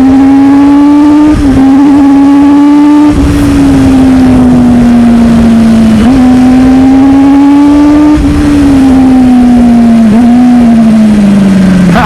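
Motorcycle engine held at high revs under way, its pitch drifting slowly with brief dips every couple of seconds as the throttle eases and comes back, and sagging lower near the end. Wind rush buffets the microphone underneath.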